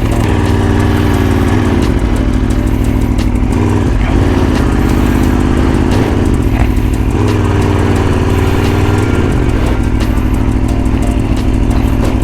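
Motorcycle engine idling right after a cold start, its pitch shifting slightly a few times.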